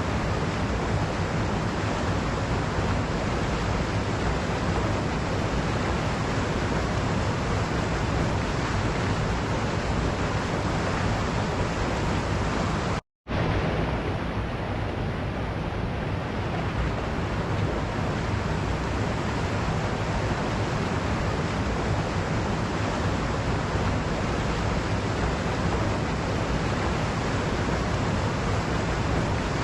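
Waterfall rushing in a steady, even roar of falling water. It cuts out completely for a split second a little under halfway through, like an edit splice, then resumes.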